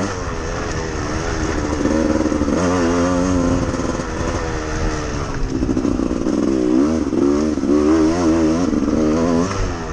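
Off-road motorcycle engine revving up and down again and again as the throttle is opened and closed, its pitch climbing and dropping about once a second.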